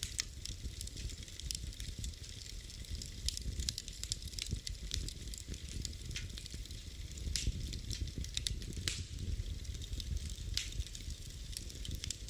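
Wood fire burning in a fireplace: irregular sharp crackles and pops, several a second, over a steady low rumble and hiss of the flames.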